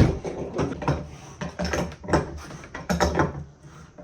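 Irregular knocks, clicks and clatter of parts and tools being handled, with the loudest knock at the very start.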